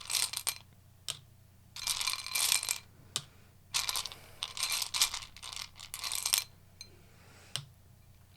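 Tarot cards being shuffled and handled, a papery riffling and slapping in several short bursts with a few sharp clicks in between.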